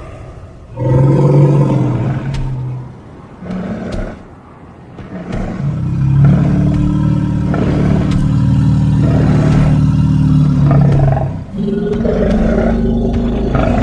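Designed Gomphotherium creature roars made from elephant and woolly mammoth sound effects: three low, pitched roars, the middle one lasting about six seconds.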